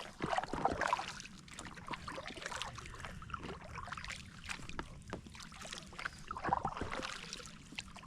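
Kayak paddle strokes in calm water: the blades swish and splash, and small drips and clicks come between the strokes. The loudest swishes are about half a second in and again near the end.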